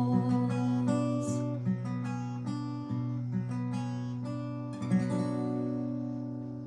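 Acoustic guitar playing a song's closing bars: picked notes, then a final strummed chord just before five seconds in that rings out and fades away.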